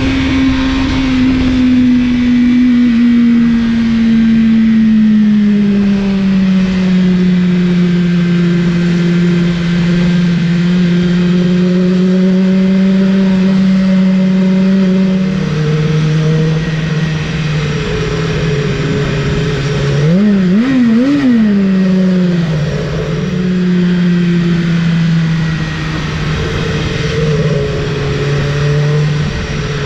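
BMW S1000RR's inline-four engine running under way, its pitch easing slowly downward, then dropping lower about halfway through. About two-thirds through the throttle is blipped quickly two or three times before the engine settles back to a steady note.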